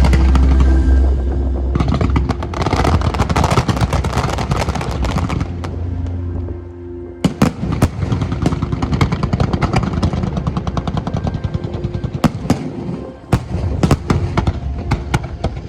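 Aerial fireworks going off in rapid crackling volleys, with louder single bangs from about seven seconds in, over background music.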